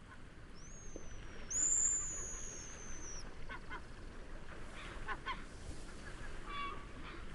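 Seaside wind-and-wave ambience with birds calling over it: a bird's long, high whistles slide slightly downward over the first few seconds and are the loudest sound, then several short honking calls come about halfway through and again near the end.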